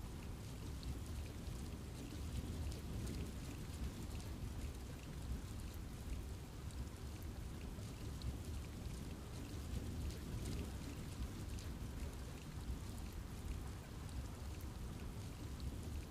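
Steady rain falling in a forest, with a low rushing background and many small drop ticks on leaves.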